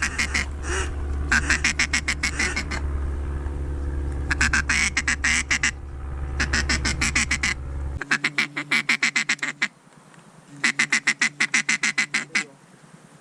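Ducks quacking in rapid runs of many quacks, about five runs, each a second or two long. A steady low hum underneath cuts off suddenly about eight seconds in.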